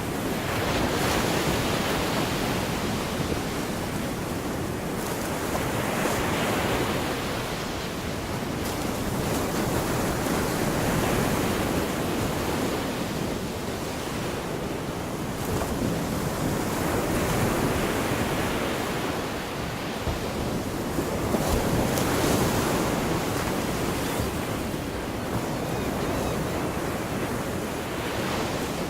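Gulf of Mexico surf: small waves breaking and washing onto the beach, the hiss swelling and easing about every five seconds.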